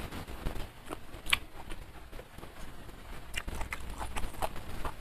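Close-miked chewing of a mouthful of food, with irregular wet mouth clicks and smacks, one sharper click about a second in and a run of clicks near the end.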